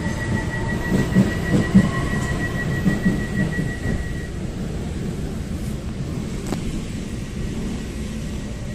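Taiwan Railways train running on the track: a low rumble with irregular clattering knocks, heaviest in the first few seconds, then a smoother, quieter rumble. A steady high tone stops about four seconds in.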